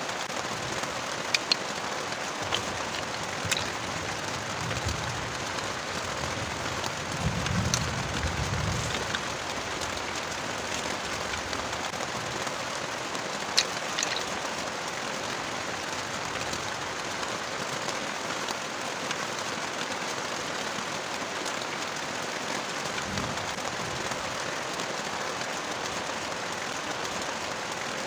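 Heavy rain pouring steadily, with a few sharp drip-like ticks and a brief low rumble about a third of the way through.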